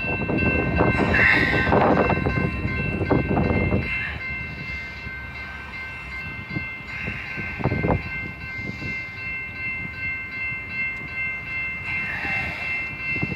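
Diesel locomotives running in a rail yard: a low engine rumble with a steady high whine, swelling louder for the first few seconds, with a few sharp knocks.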